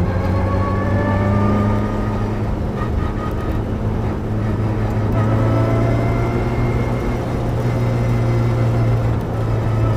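Mitsubishi Lancer Evolution's turbocharged four-cylinder engine, heard from inside the stripped cabin, pulling at fairly steady revs. The pitch sags slightly in the middle and starts to climb near the end as the car accelerates.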